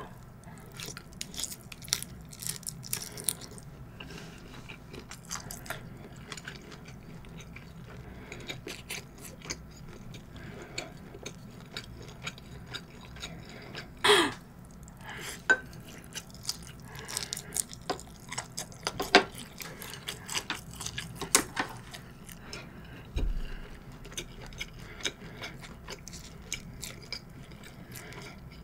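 A person chewing large-shrimp nigiri sushi, with wet mouth clicks and smacks throughout and a few louder smacks, the loudest about halfway through.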